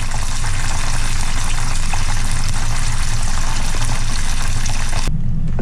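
Beer-battered bullfrog legs sizzling steadily in 350-degree frying oil; the sizzle cuts off suddenly near the end.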